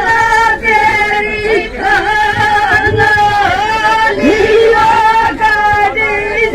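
Women singing a rasiya folk song, holding long, slightly wavering notes with only brief breaks between phrases.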